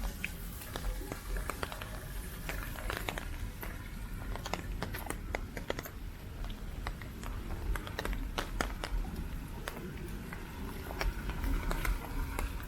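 Heavy typhoon rain: many irregular drops ticking close to the microphone over a low, steady rumble.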